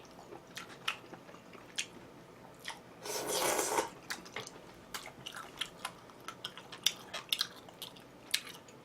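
Close-miked eating sounds: wet chewing and mouth clicks in quick, irregular succession, with one brief, louder slurp about three seconds in.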